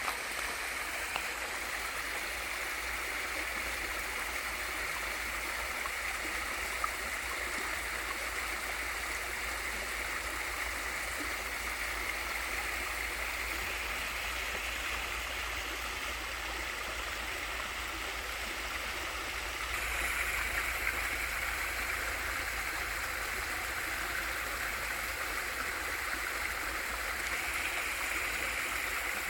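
Water of a small waterfall in a mountain stream, falling and rushing steadily, getting slightly louder about two-thirds of the way through.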